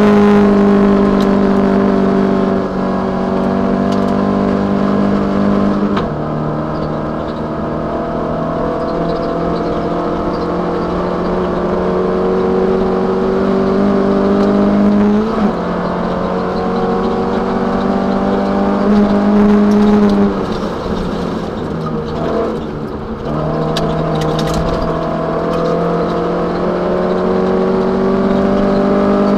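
Toyota Celica 1600 rally car's four-cylinder engine heard from inside the cabin, running hard under load: the engine note climbs and then steps down suddenly several times as it goes through the gears, with a brief rougher, quieter lift off the throttle about two-thirds of the way through.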